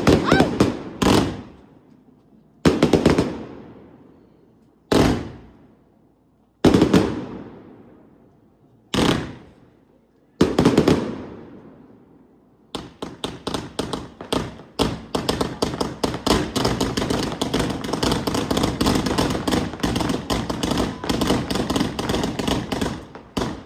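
Fireworks going off: seven single loud bangs, one to two seconds apart, each trailing off in a fading rumble. About halfway through comes a rapid, unbroken volley of crackling bangs, which stops just before the end.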